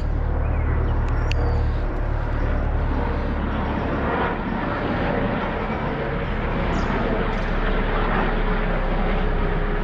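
A large aircraft flying low overhead, a steady drone with a broad rushing noise over it.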